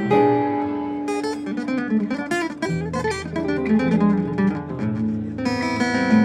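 Guitar being played: picked single notes and short runs over a held low note, with louder strummed chords coming in near the end.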